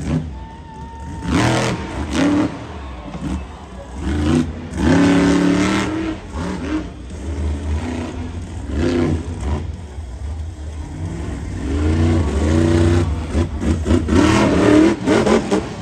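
Monster truck engine revving hard in several bursts, its pitch climbing and dropping, over a steady deep rumble.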